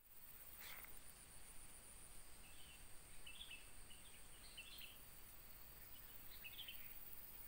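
Near silence: a faint outdoor hush with a few soft, high bird chirps in short clusters, about three seconds in and again near the end.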